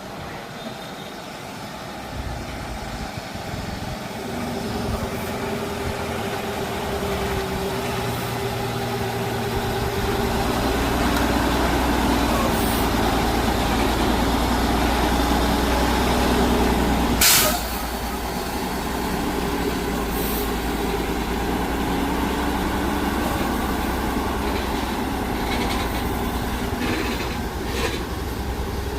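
A heavy truck's engine runs and labours, growing louder through the first half, with a brief loud hiss about seventeen seconds in.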